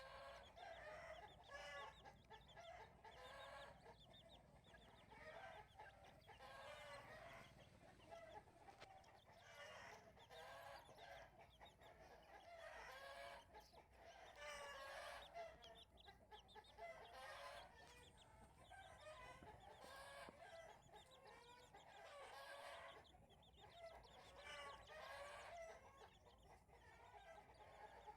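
Chicken clucking and calling again and again, faint, in short runs of calls.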